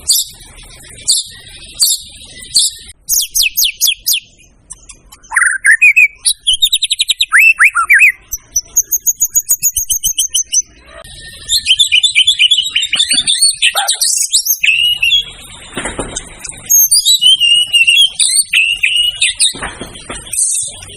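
White-rumped shama (murai batu) singing a long, varied song. It starts with spaced sharp notes, then moves through quick runs of repeated notes, rising and falling whistles, a fast high trill and dense chattering phrases, with a couple of harsh rasping notes near the end.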